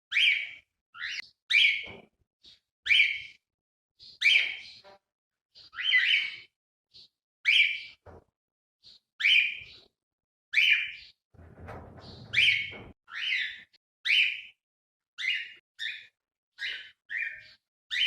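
Cockatiel calling: a run of short, separate chirping whistles, one or two a second, with a brief low rumble in the background a little past the middle.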